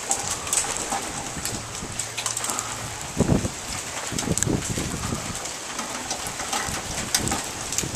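Rain falling steadily, with many sharp ticks of drops striking close by. A few short low thumps stand out about three and four seconds in.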